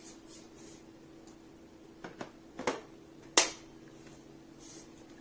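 Hard plastic parts of a cordless stick vacuum being handled and clipped together, giving a few scattered clicks and knocks. The sharpest, loudest snap comes about three and a half seconds in.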